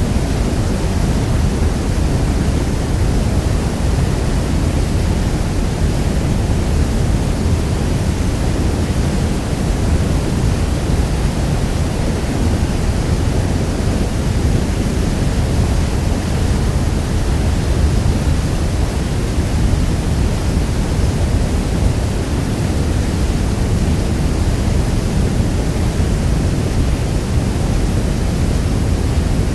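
Niagara Falls pouring: a loud, steady rush of falling water, heaviest in the deep low end, with no breaks or separate sounds.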